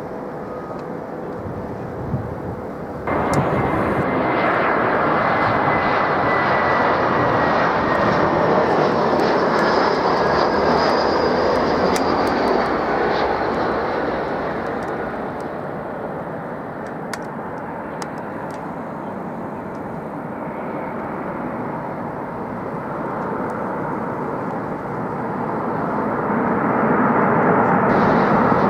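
Jet airliner flying past, its engine noise cutting in abruptly about three seconds in, building with a thin whine that slowly falls in pitch, then easing off. A second swell of jet noise builds near the end.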